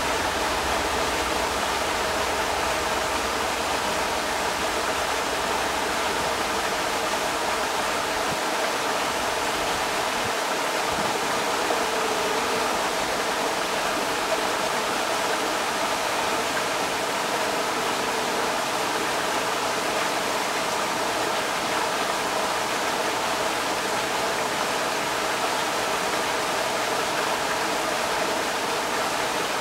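Creek water rushing steadily over rocks, a constant, even rush without a break.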